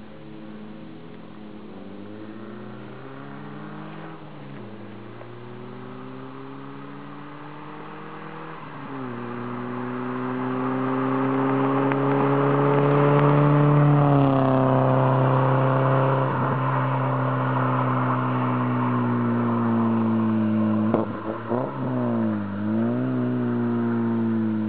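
Škoda Felicia 1.6's four-cylinder petrol engine and exhaust under throttle. The note climbs steadily, then falls sharply twice, about 4½ and 9 seconds in, as at gear changes. It is loudest around 13–14 seconds, then holds and eases off, and ends with a few quick throttle blips near the end.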